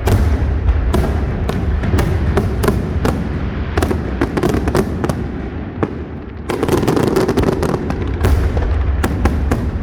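A large aerial fireworks display: a rapid, irregular barrage of crackling bursts and booming shell breaks over a constant rumble, easing briefly about six seconds in before picking up again.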